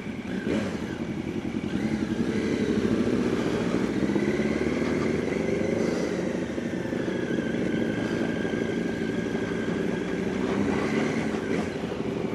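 Yamaha R1's inline-four engine running under way while riding, its pitch rising gently over the first few seconds and then holding fairly steady.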